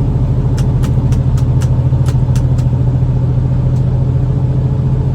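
Semi-truck diesel engine running at a steady low drone, heard from inside the cab while driving. A quick run of about eight light clicks comes about a second in.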